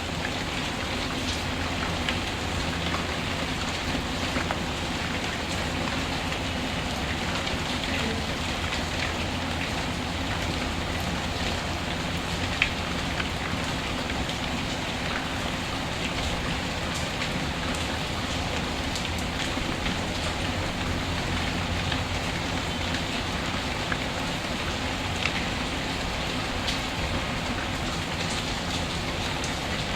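Steady rainfall, a constant hiss of rain with a few sharp crackles from a wood fire in a fireplace.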